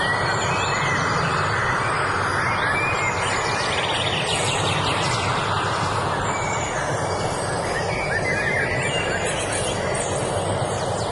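Several songbirds chirping and singing in short, scattered phrases over a steady rushing noise.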